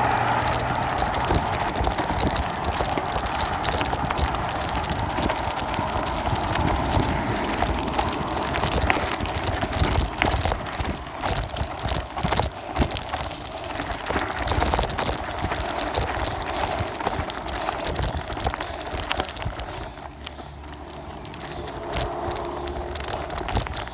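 Bicycle ride heard from a phone taped to the front of the bike: a steady rushing noise with a dense clatter of knocks and rattles as the bike runs over the ground. It gets quieter about twenty seconds in.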